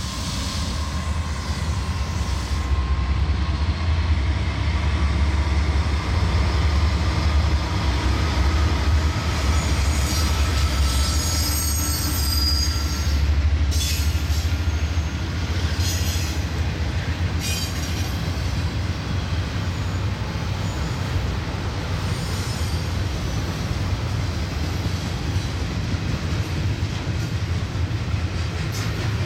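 A Norfolk Southern double-stack intermodal train passing close by: the lead GE Dash 9-44CW diesel locomotives go by first, then the container well cars roll past with a steady low rumble. A brief high wheel squeal comes about ten to thirteen seconds in, and a few sharp clicks follow a few seconds later.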